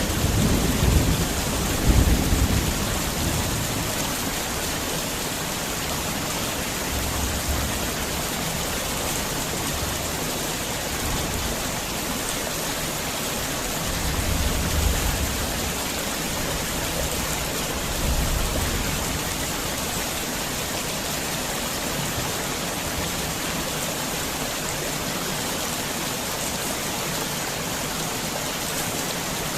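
Heavy rain pouring steadily. Several low rumbles come and go in the first twenty seconds, the strongest near the start.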